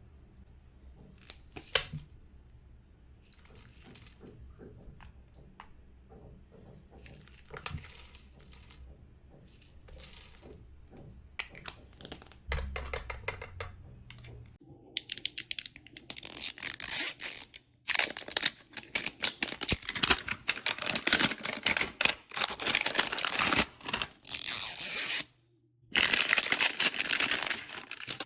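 Packaging being handled and opened: scattered small clicks and rustles, then from about halfway through loud, continuous crinkling and tearing of plastic wrapping, broken by a couple of short pauses.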